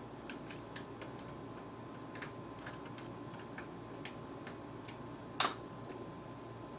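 Light, irregular metallic clicks and ticks from a small tool working a screw loose inside an opened PS3 console, with one sharper click about five and a half seconds in.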